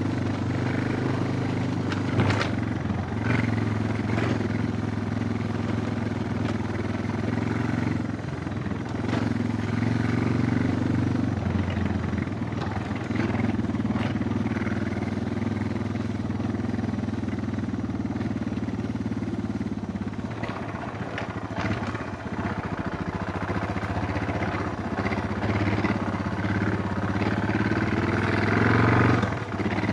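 Suzuki DR650's single-cylinder four-stroke engine running while the motorcycle is ridden, at fairly even revs that swell and ease now and then, with a few short knocks and clatters.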